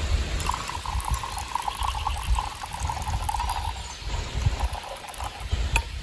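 Water pouring for about three seconds, over a low rumble of wind on the microphone.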